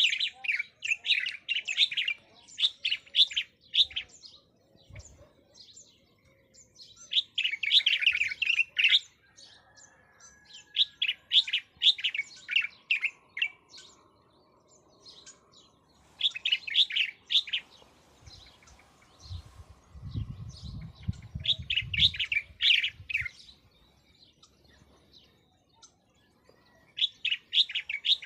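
Bird song: repeated bursts of rapid, high chirping, each lasting two or three seconds, with short pauses between them. A low rumble sits under the song about two-thirds of the way through.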